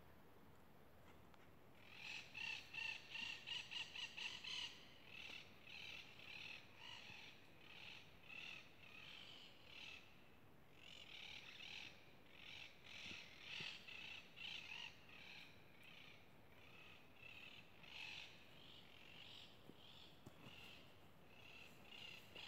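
Faint, harsh bird calls. A rapid run of quick notes starts about two seconds in, and calls come on and off after that.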